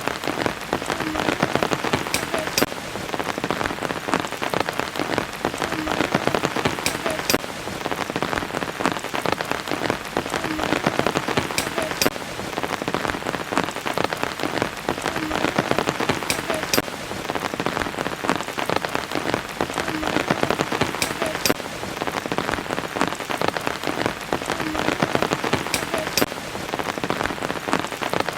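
Steady rain with dense close drops. The same short stretch, marked by a few sharp drips, repeats about every five seconds: a looped rain recording.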